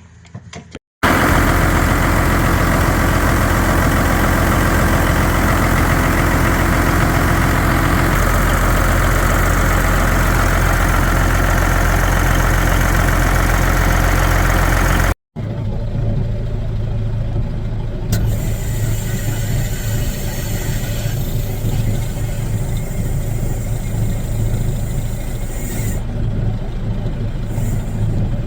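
Kenworth W900 semi truck's Caterpillar diesel engine running, in two edited stretches: a loud steady run from about a second in, then after a sudden break at about the halfway point, a quieter steady low drone.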